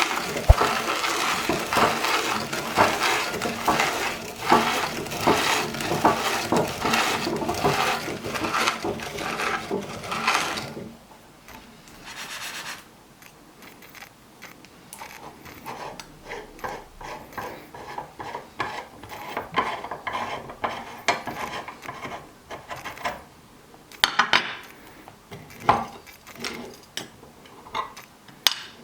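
Potato chips crunching and crackling as they are crushed in a transparent meat grinder, with plastic parts scraping. The crunching is dense and continuous for about the first ten seconds, then thins out to scattered, quieter crackles.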